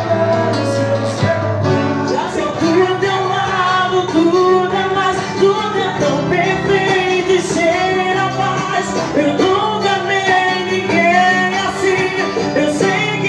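A small band playing a song, with a singing voice over steady low notes.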